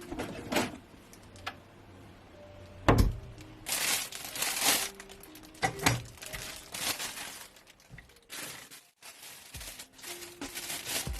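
Irregular knocks and short rustling, crinkling bursts of things being handled and set down, over soft background music.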